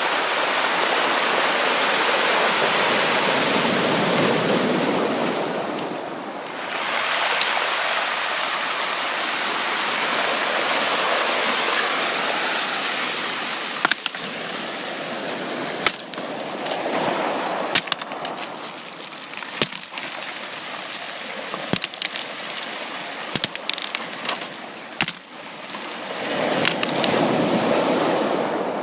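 Sea waves breaking and washing up a beach, the surf swelling and ebbing every several seconds. Many sharp short clicks run through the second half.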